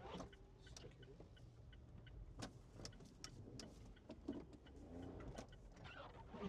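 Faint, steady low hum of a vehicle engine running, with scattered light clicks and knocks.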